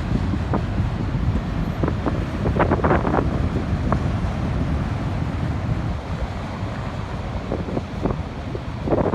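Wind buffeting the microphone over the steady low rumble of a passing freight train, with a few short gusts.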